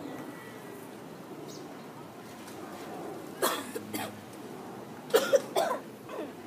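A person coughing in short sharp bursts, twice about three and a half to four seconds in and several more around five to six seconds in, from a stomach unsettled by chugging milk.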